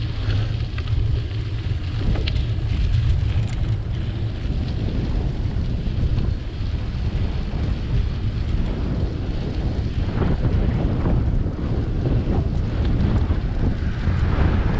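Wind buffeting the microphone of a camera riding along on a moving bicycle: a steady low rumble with a lighter hiss above it.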